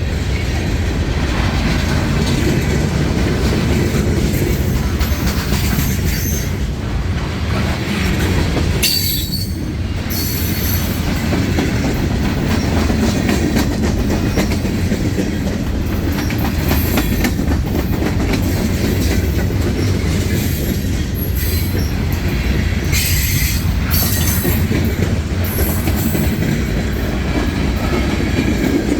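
Freight train cars rolling past close by, a steady loud rumble of wheels on rail, with short high-pitched wheel squeals about nine seconds in and again around twenty-three seconds.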